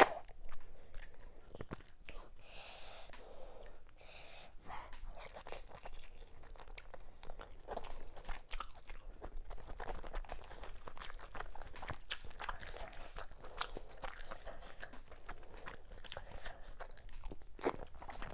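Close-miked chewing of assorted cow meats with fufu and okra soup: a steady run of small wet mouth clicks and crunches.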